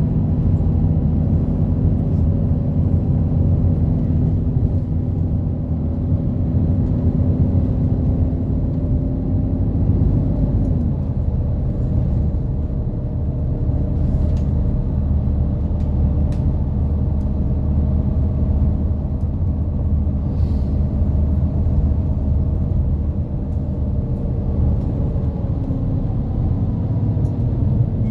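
City route bus driving, heard from inside the passenger cabin: a steady low engine drone with road rumble. The engine note drops about ten seconds in, then the drone carries on.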